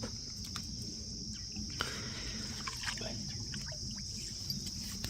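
Steady high chirring of crickets, with a few faint scattered clicks over it.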